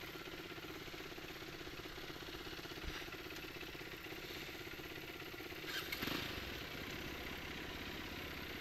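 Enduro motorcycle engine idling with a rapid, even beat, with a short louder swell about six seconds in.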